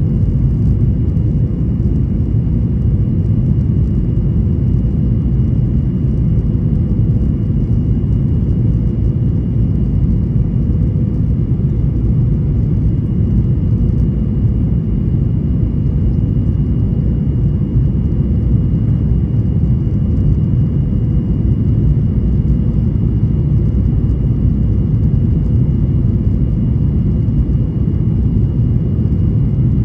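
Boeing 737-800 airliner noise: a steady, unbroken low rumble of engines and airflow, with a faint steady whine above it.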